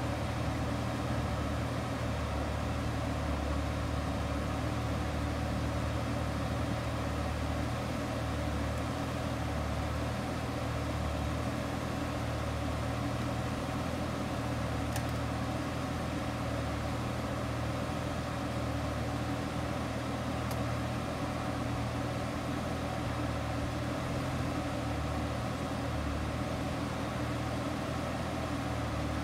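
Lamborghini Gallardo Spyder's V10 engine idling steadily, with a couple of faint ticks.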